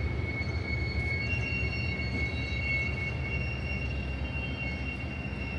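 Rail yard below: a steady low rumble of locomotives and railcars, with long, high squeals of steel railcar wheels. One squealing pitch fades about three seconds in, while a higher one begins about a second in and carries on.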